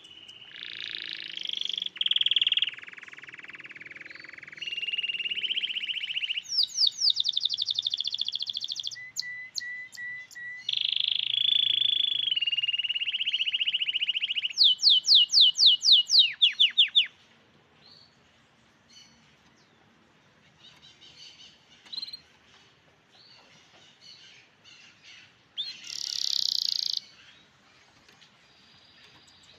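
Canary singing: long rolled trills and buzzy held notes, with a run of fast, loud repeated sweeps about halfway through, then softer scattered chirps and one more short phrase near the end.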